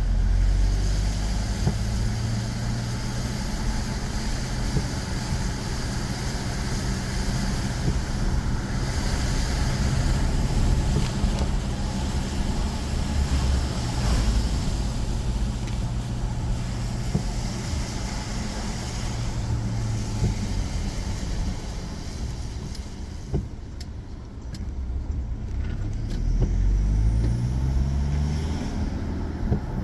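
A car driving, its engine and tyre noise running steadily. Near the end the engine pitch rises and falls several times as the car speeds up and changes gear.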